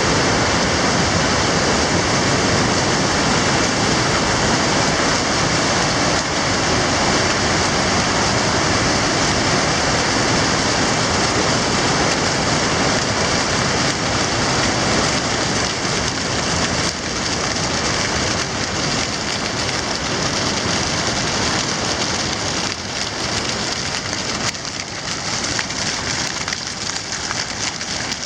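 Steady, loud rushing of water, a dense even hiss with no tones, easing slightly near the end.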